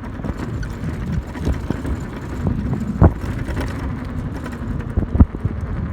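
1500 W hub-motor electric pit bike being ridden: a steady rumble of riding noise with a faint motor hum, broken by scattered knocks, the two sharpest about three and five seconds in.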